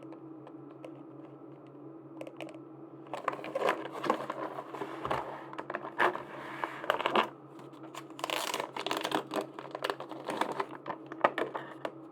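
Hands handling merchandise packaging: irregular crinkling of plastic wrap and small clicks in two stretches, starting about three seconds in, over a steady low hum.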